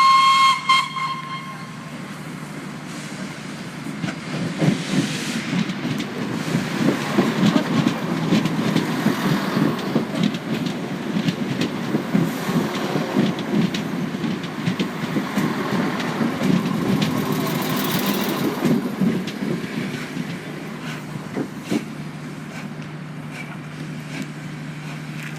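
A train's horn or whistle sounds a short note, then a train runs past, its wheels clattering rapidly over the rail joints for most of the time before fading away.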